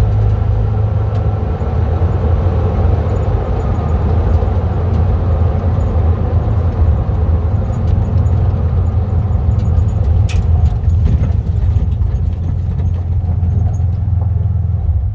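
1995 Ford F-150's 4.9-litre (300) inline-six running steadily through a muffler-delete exhaust cut off behind the catalytic converters, a deep, even exhaust note with no revving. A brief click about ten seconds in.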